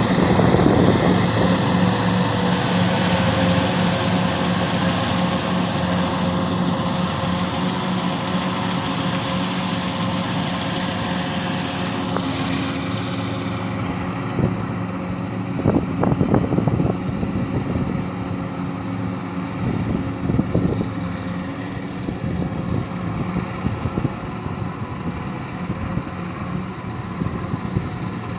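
An engine running steadily at an even pitch, with a few short louder knocks about halfway through.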